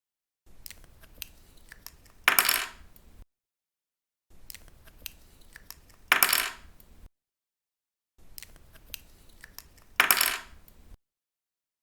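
A plastic pen cap pulled off with small clicks, then set down on a table with a short, loud clatter. This happens three times, with silent gaps between the takes.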